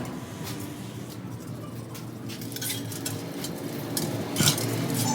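Light metallic clinks and taps, a few scattered knocks with a sharper one about four and a half seconds in, over a low steady hum.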